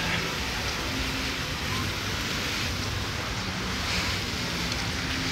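Steady hiss of rain falling, with wind on the microphone.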